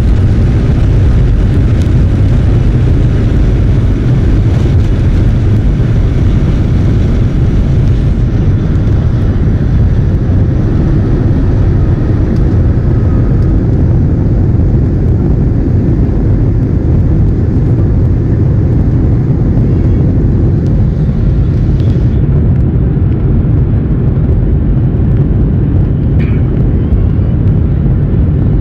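Airliner's jet engines and rushing air heard from inside the passenger cabin during the climb after takeoff: a steady, loud low rumble whose upper hiss thins slightly about 8 seconds in and again around 22 seconds.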